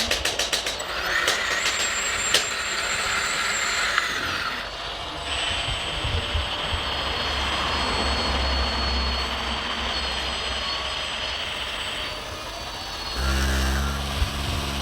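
Electric hydraulic pumps and motors of remote-controlled model construction machines whining steadily in long stretches as they work, after a quick run of clicks at the start. Near the end a low, engine-like drone comes in.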